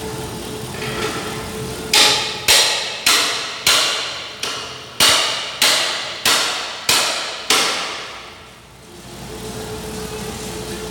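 Holden Commodore 6.0-litre V8 idling steadily. About two seconds in, a run of ten loud, sharp knocks, a little under two a second, covers the idle, which comes back near the end.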